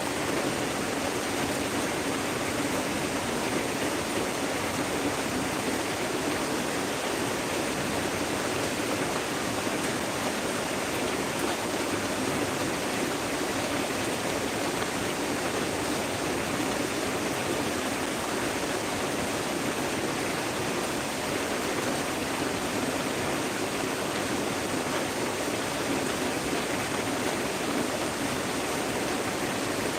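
Heavy rain pouring down steadily, an even, unbroken hiss of water.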